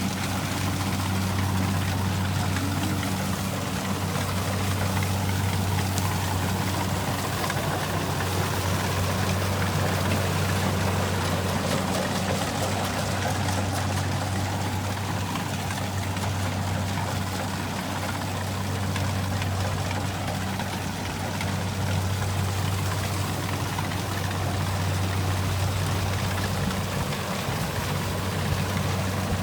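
Kubota rice combine harvester running steadily: a constant diesel engine hum with an even rushing noise over it.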